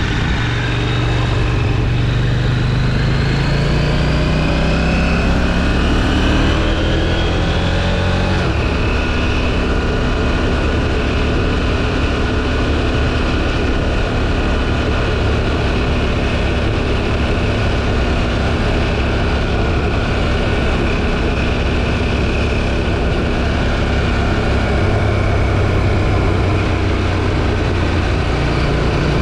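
KTM 790 Duke's parallel-twin engine through its stock exhaust, pulling hard with its pitch rising for the first eight seconds or so, then cruising at steady revs. Wind rushes over the helmet camera throughout.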